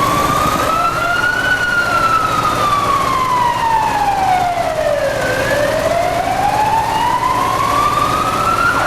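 A siren wailing slowly over steady background noise: its pitch rises, falls steadily for about four seconds, then climbs again.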